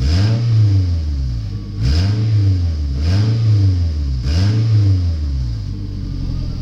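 2003 Toyota Camry engine, a used one with about 194,000 miles, revved in four quick blips, each rising and falling in pitch about once a second, then settling back to a steady idle near the end.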